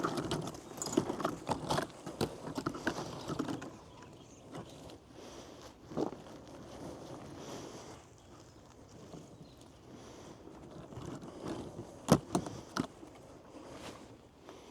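Digging in moist soil of a chicken run: irregular scraping and crunching of dirt, busier for the first few seconds, with a few sharp knocks about six seconds in and twice near twelve seconds.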